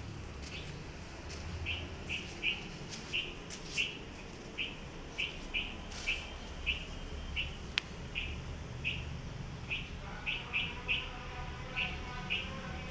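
A small bird chirping over and over, short high chirps about every half second, over a steady low hum.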